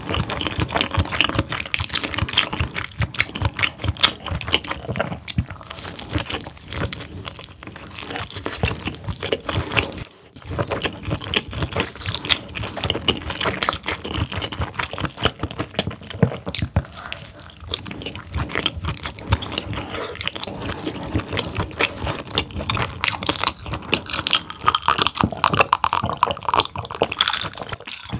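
Close-up wet chewing of whole steamed squid: dense, rapid mouth clicks and smacks as soft, rubbery squid flesh is chewed. Near the end, gulps from a glass of drink.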